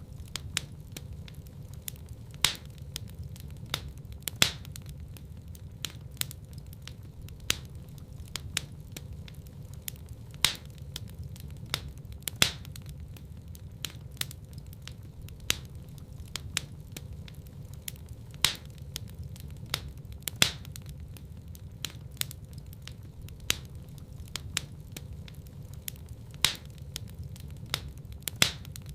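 Wood fire burning in a fireplace: frequent irregular sharp crackles and pops over a steady low rush of flames.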